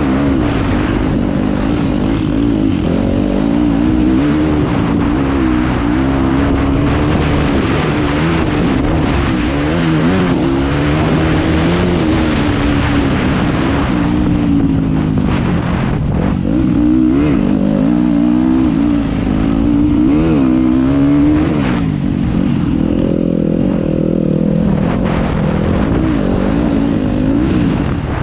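Motocross bike engine heard from the rider's helmet camera, revving up and falling back again and again as the rider works the throttle around the track, with a steadier stretch late on. A rushing noise runs under it throughout.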